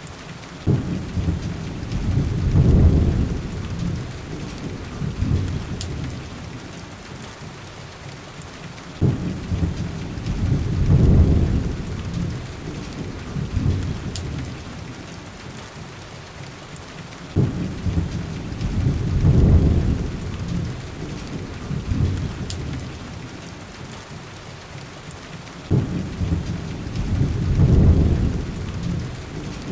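Steady heavy rain with rolling thunder: four deep rumbles, each starting suddenly, swelling over a couple of seconds and fading, coming about every eight seconds.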